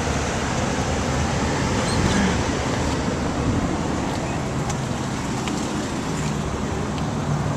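Steady background noise of vehicles and road traffic: an even rumble and hiss.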